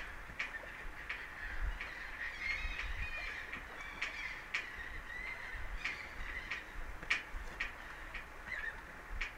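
Birds calling over and over, short wavering honk-like calls, mixed with sharp irregular clicks and a low rumble.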